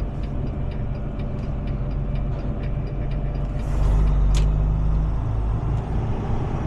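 Heavy tow truck's engine running, heard from inside the cab, with a light steady ticking in the first half. About four seconds in, the engine grows louder and a short sharp hiss of air sounds.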